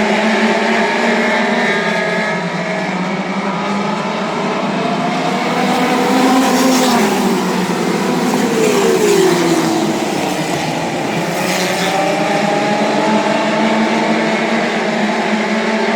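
Several midget race cars running on the oval, their engines overlapping. One car's pitch falls as it passes about six seconds in, and another's about nine seconds in.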